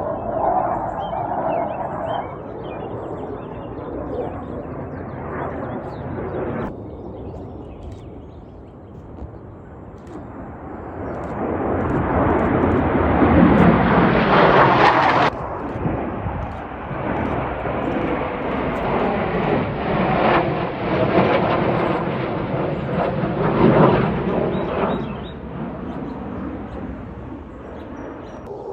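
Roar of Blue Angels Boeing F/A-18 Super Hornet jets flying overhead. It builds to a loud peak about halfway through, drops off suddenly, then rises again into a second loud stretch that fades near the end.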